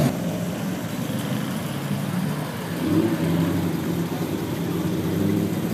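Engines of classic cars running at low speed as they roll past one after another: a steady low engine note that swells briefly about three seconds in.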